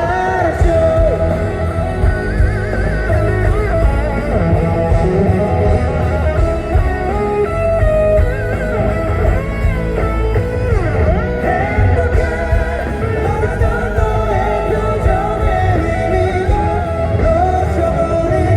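Live rock band playing, with an electric guitar carrying a lead line full of pitch bends over the band.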